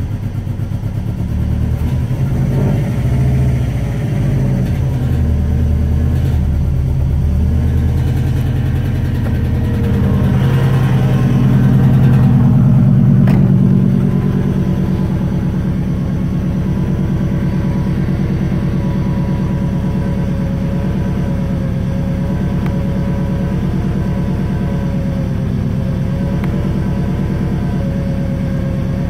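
Turbocharged Subaru EJ205 flat-four engine running at a fast idle after its first start. It swells briefly about ten to fourteen seconds in, then holds steady, with a constant whine over it from the car's bad AC compressor.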